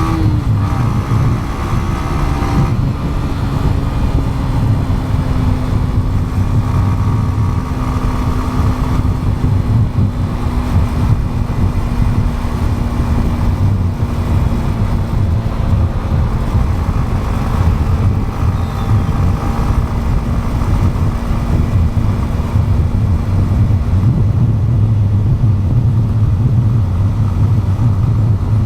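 Motorcycle engine running at a steady cruise under a heavy low rumble. Its note drops quickly just after the start, then sinks slowly and gradually through the rest of the ride.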